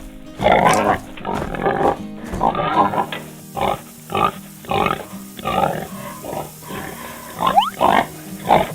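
Pig grunting in a string of short, repeated grunts, over background music with steady held notes.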